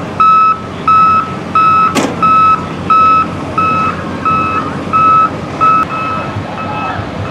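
Vehicle back-up alarm beeping in a steady rhythm, about three beeps every two seconds, each beep a single high tone; the beeps grow fainter near the end. A sharp click about two seconds in.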